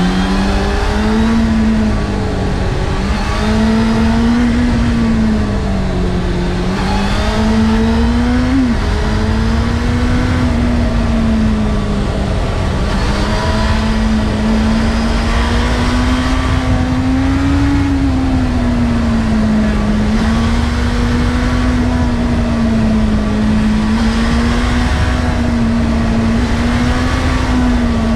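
Honda CBF600's inline-four engine heard onboard while riding, its note holding steady and rising and falling gently with the throttle, with a brief jump and drop in pitch about eight seconds in. Wind rumble on the microphone runs underneath.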